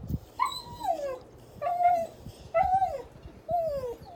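A dog whining four times in a row, each whine a short call that falls in pitch: begging, which the owner takes for hunger.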